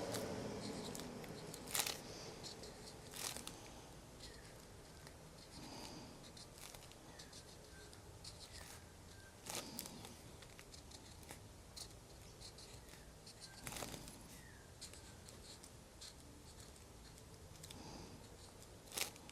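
Faint scratching of a marker drawing on a painted journal page, with a handful of sharp clicks and taps spread through it.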